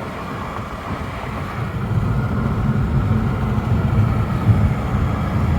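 Car driving, heard from inside the cabin: a steady low rumble of road and engine noise that grows louder about a second and a half in.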